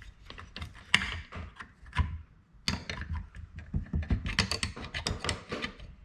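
Irregular small clicks and clinks of metal parts being handled: a cutoff wheel, flange and lock nut being tried on an unplugged angle grinder's spindle.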